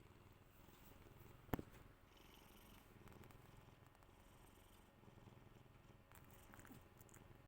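Domestic cat purring faintly and steadily close to the microphone, with a single sharp tap about a second and a half in.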